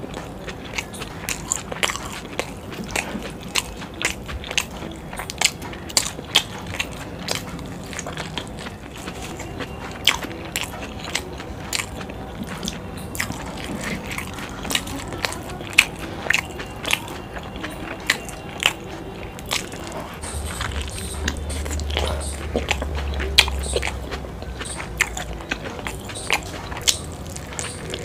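Close-up eating sounds of chilli momos, dumplings in a sticky chilli sauce, being bitten and chewed: a steady run of short wet smacks and clicks from the mouth. A low hum comes in for a few seconds after the middle.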